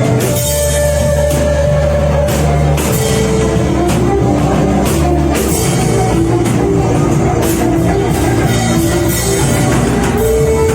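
Worship band playing an instrumental passage: a drum kit keeps a steady beat over held bass notes and sustained chords, loud and even throughout.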